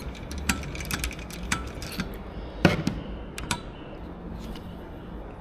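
Kia Morning engine idling with a low hum and irregular sharp clicks and rattles, the loudest about two and a half seconds in; the noise the owner ties to a failing alternator OAD (overrunning decoupler) pulley.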